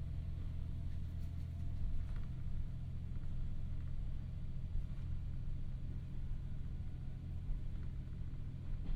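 Ride sound inside a KiHa 40-series diesel railcar: the diesel engine running at a steady speed under a constant low rumble.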